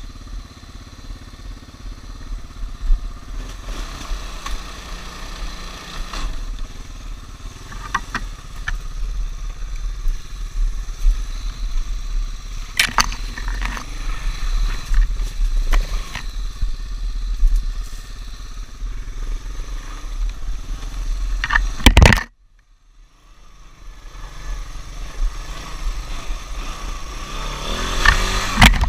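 Small off-road vehicle engine running and pulling through mud, with scattered knocks and clatter. About 22 seconds in the engine sound cuts off suddenly after a loud peak, then builds back up near the end.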